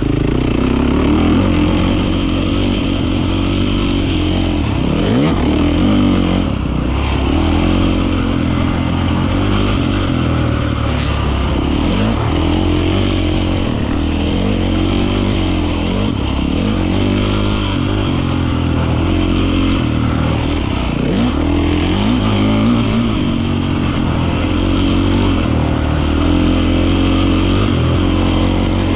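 Beta 450 RX four-stroke single-cylinder motocross engine, revving up and down over and over as the throttle is opened and closed.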